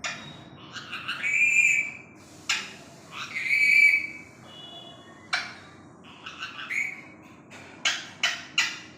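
Pet parrot calling: two longer, high whistling calls in the first half, then short sharp squawks, three in quick succession near the end.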